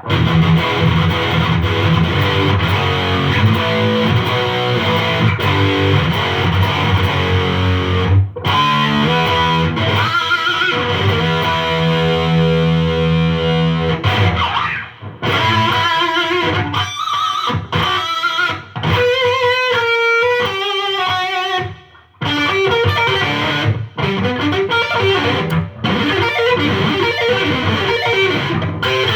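Electric guitar played through a Line 6 Spider IV amp head on its metal channel: heavily distorted chords and riffs, with wavering single-note lead lines in the middle and riffing again near the end. The amp holds a full, strong signal without fading, which is the check on a repair for a fault where the signal went weak after a few seconds.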